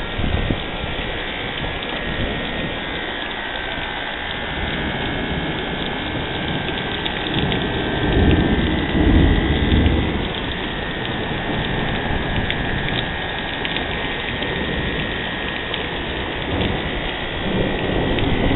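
Steady rain falling during a thunderstorm, with a low rumble of thunder swelling about eight seconds in and fading two seconds later.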